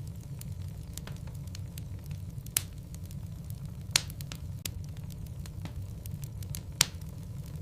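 Wood logs burning in a fireplace: a steady low rumble of the flames with scattered sharp crackles and pops, three of them louder, at about 2.5, 4 and 7 seconds in.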